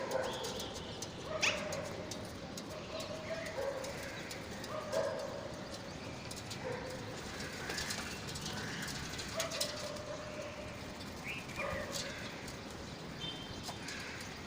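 Parrot chicks calling: short, repeated calls, one every second or two, with a few sharp higher squeaks among them.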